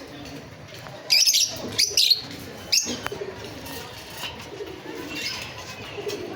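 Domestic Teddy pigeons cooing softly, with a few sharp, loud sounds about one to three seconds in.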